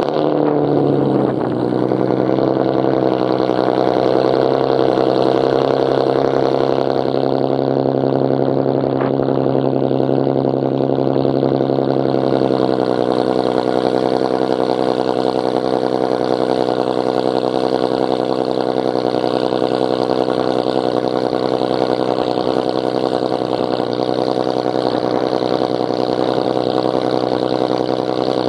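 Infiniti G37xS's 3.7-litre VQ37VHR V6 running on a cold start through a straight-piped exhaust with the muffler and resonator deleted. The start-up flare falls off in the first second or two into a steady fast cold idle, which steps down slightly about twelve seconds in.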